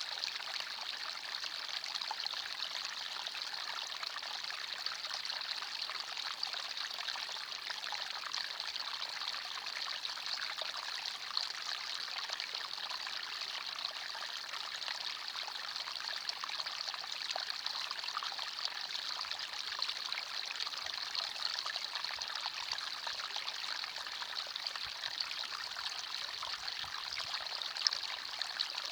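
Forest stream flowing over stones, a steady rushing and trickling of water.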